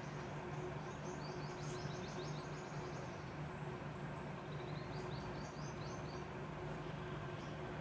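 A small bird chirping in two quick runs of short, high notes, about a second in and again around five seconds in. Under it is a steady low hum of room noise.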